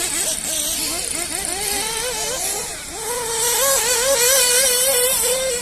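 Several RC buggies racing, their motors buzzing at high revs, the pitch rising and falling as they go round the track. About three seconds in, one buggy comes close and holds a steady high-pitched buzz.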